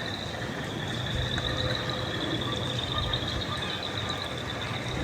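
Night ambience of steady rain with a continuous high-pitched trilling chorus of frogs. A low steady hum joins about a second in.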